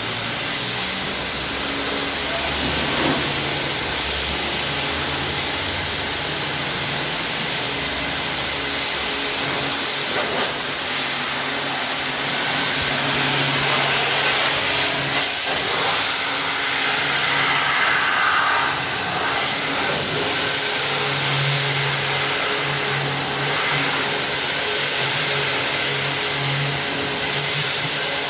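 Car-wash equipment running: a steady rushing hiss with a low motor hum that switches on and off in short spells, most often in the second half.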